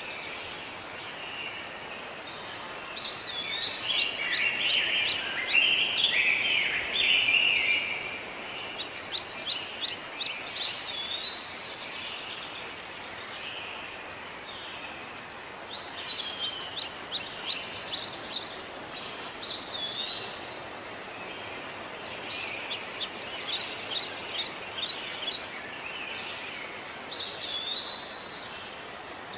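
Songbirds singing in repeated phrases of rapid high notes, each phrase ending in a short swooping whistle, about every four to six seconds. The song sits over a steady background hiss.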